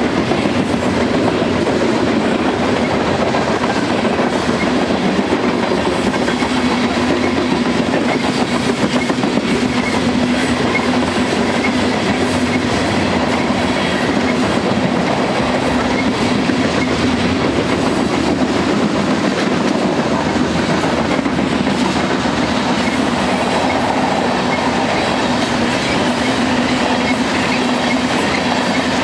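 A loaded train of covered grain hopper cars rolling past close by: a steady, loud rumble of steel wheels on rail with continuous clickety-clack and a steady hum.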